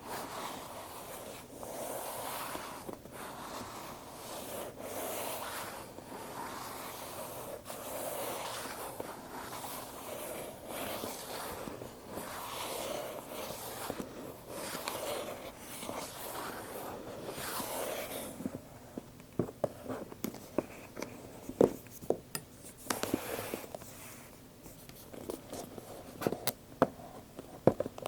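Handling of an Apple product box: repeated rubbing or sliding strokes across its cardboard, each stroke swelling and fading, for about eighteen seconds. Then a run of sharp taps and clicks on the box.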